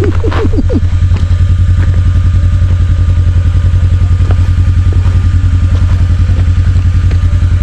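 Side-by-side UTV engine idling steadily with an even, rapid low pulse, close to the microphone.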